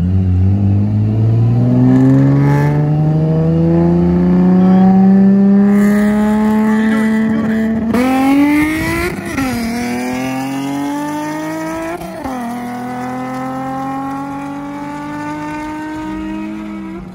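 Nissan Z-car V6 engine accelerating hard through the gears, its pitch climbing steadily. It drops sharply at quick upshifts about eight, nine and a half and twelve seconds in, then climbs again.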